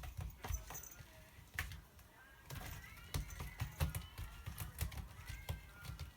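A cat sharpening its claws on a scratcher: a run of irregular, quick scratching strokes with soft thumps.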